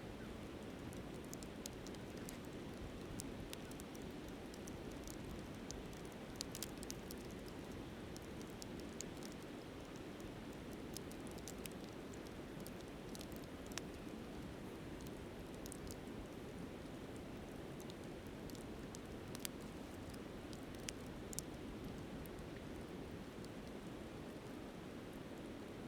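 Wood campfire crackling, with scattered sharp pops, over the steady rush of a flowing river.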